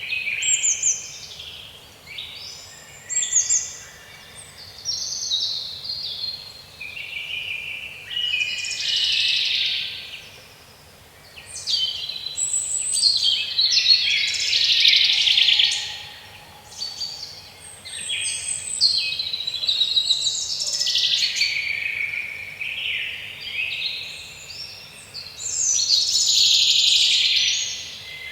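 Several songbirds singing at once, with dense overlapping chirps and trills throughout.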